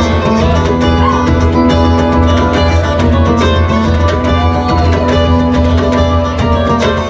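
Live rock band playing an instrumental jam with no vocals: a guitar lead with bending notes over a steady bass line and drums.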